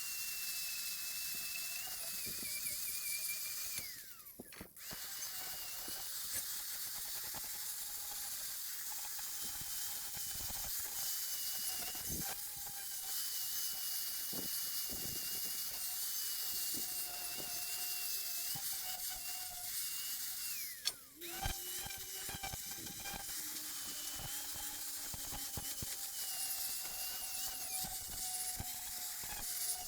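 Angle grinder with a buffing pad running against rusty steel: a steady high whine with a hiss of abrasion. Twice the whine drops out briefly and spins back up, about four seconds in and again around twenty-one seconds.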